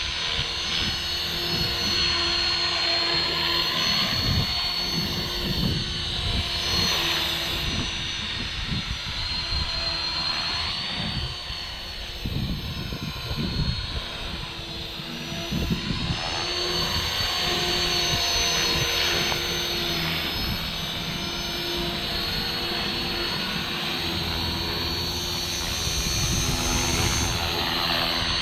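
Electric RC helicopter in flight: a steady motor whine and rotor hum that rise and fall slightly in pitch as it is flown. Gusts of wind buffet the microphone with low rumbles.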